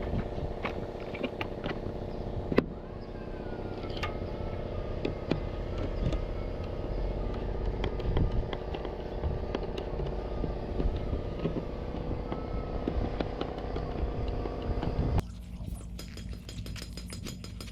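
A steady mechanical running hum with scattered knocks and clicks and a faint wavering whine, cutting off suddenly about fifteen seconds in to a quieter steady hum with rapid ticking.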